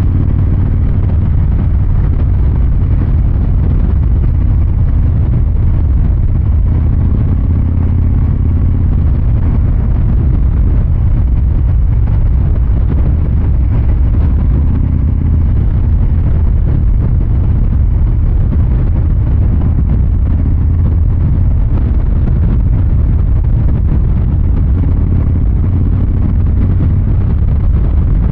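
Harley-Davidson Fat Boy 114's Milwaukee-Eight 114 V-twin running steadily, its exhaust note deep and low-pitched, with no sharp revs.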